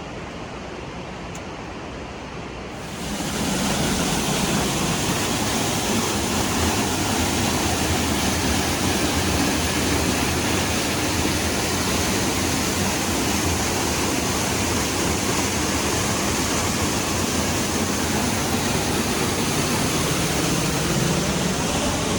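Waterfall running, a steady rush of falling water that jumps sharply louder about three seconds in and then holds.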